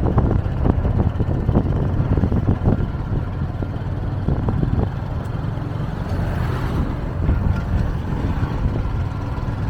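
Motorcycle engine running steadily while the bike is ridden in gear, with wind buffeting the microphone.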